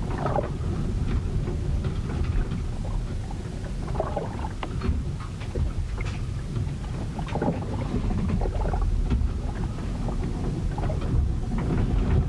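Sea storm recorded aboard a ship: a steady low rumble of wind and waves, with irregular splashes of water.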